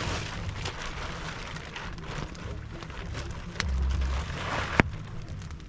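Rain and wind with gusts buffeting the microphone, over a campfire crackling with scattered pops. One sharp snap near the end is the loudest sound.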